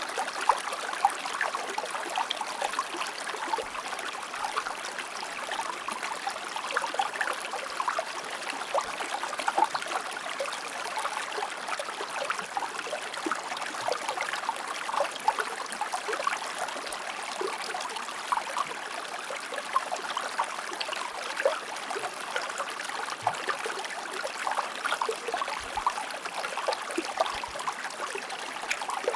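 Shallow river or stream flowing steadily over rocks, a continuous bubbling, splashing rush.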